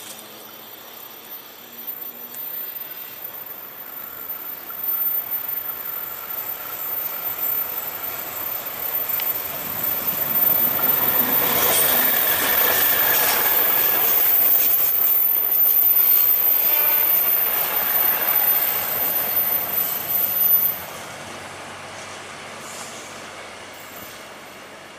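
Airport-line multiple-unit train approaching and passing on a sharp curve: the rumble of wheels on rail grows steadily louder, with a thin, very high-pitched wheel squeal from the curve that cuts off suddenly about twenty-one seconds in, leaving a fainter rumble.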